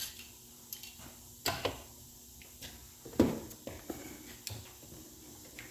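Scattered sharp knocks and clinks of tools and metal parts being handled on a workbench, about seven in all, the loudest a solid knock about three seconds in.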